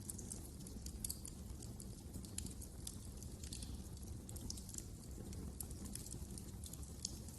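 Wood fire crackling: irregular sharp snaps and pops over a low, steady rumble of the flames.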